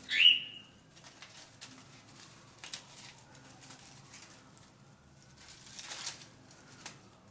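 A pet parrot gives one short call that drops to a held whistle-like note right at the start. Then come scattered light clicks and taps from the birds handling their new plastic and wooden toys, and a brief rustle about six seconds in.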